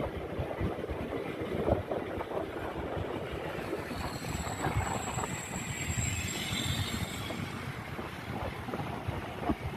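Motorcycle riding through traffic: engine and road noise under heavy wind buffeting on the microphone.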